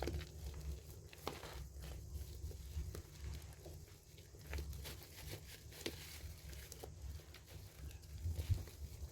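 Soaked bar soap being squeezed and lathered by hand: irregular wet squishes and small crackles.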